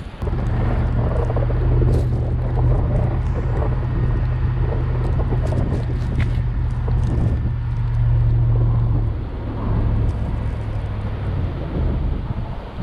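A heavy vehicle's engine running steadily with a deep, even hum. It cuts in abruptly right at the start and eases off slightly about nine seconds in.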